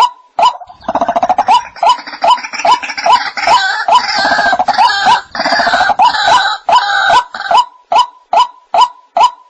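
White-breasted waterhen calling: a steady series of short notes, about two and a half a second. From about a second in until near the end, a louder, harsher run of calls crowds in over them, and then the plain series carries on alone.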